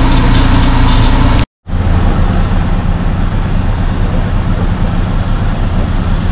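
Off-road 4x4 engine running. The sound cuts out for a moment about a second and a half in, then an engine runs on steadily.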